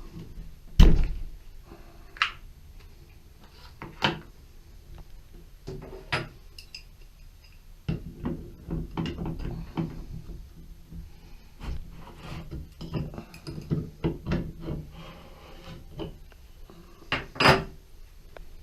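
A series of separate knocks and clunks, as of hard objects being handled and set down, the loudest about a second in. From about eight seconds in comes a stretch of low rumbling with frequent light clatter.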